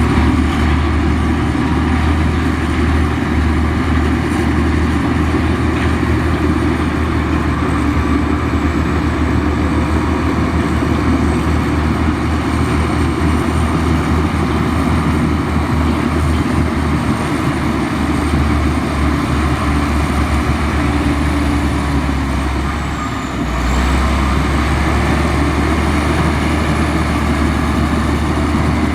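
Komatsu bulldozer's diesel engine running steadily at a deep, heavy pitch, easing off briefly about two-thirds of the way through before picking up again.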